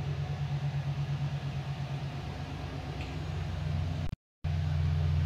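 Toyota Avalon V6 engine running with a steady low hum that pulses about five times a second. The engine is being checked for a misfire caused by a weak injector. The sound cuts out for a moment about four seconds in.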